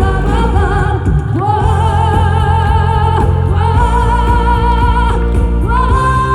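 Live trot music: a singer holds long notes with vibrato over a backing track with a steady bass beat.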